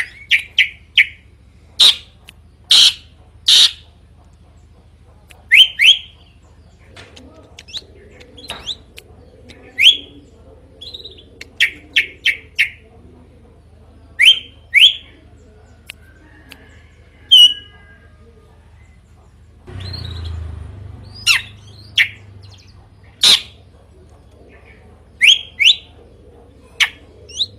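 Drongo calling loudly: sharp, rising whistled notes, mostly in quick pairs and triplets, repeated every second or two over a low steady hum. About two-thirds of the way through, a brief rushing noise runs under the calls.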